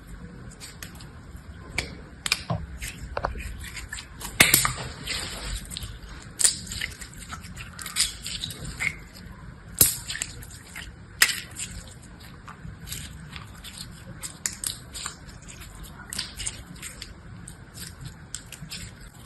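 Slime being handled close to the microphone: irregular sharp clicks and crackles, with a few louder snaps.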